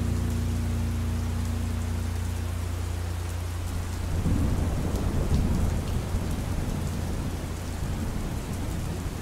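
Steady rain with a low rumble of thunder swelling in about four seconds in. A few sustained low musical tones fade out during the first three seconds.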